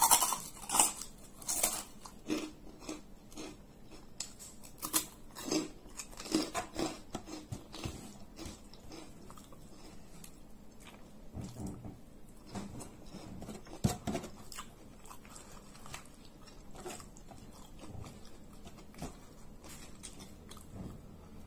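Close-up crunching bites into a crisp fried cracker (krupuk), then chewing. The crunches come thick and loud over the first several seconds and then thin out into quieter, scattered chewing sounds.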